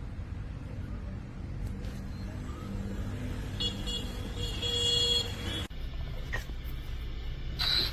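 Hyper Go H14BM V3 1/14-scale brushless RC truck driving: rumbling running noise with a high, steady motor whine from about three and a half seconds in. The sound breaks off abruptly a little later.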